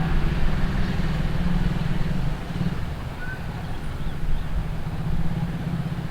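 A train passing, with a steady low rumble and hum.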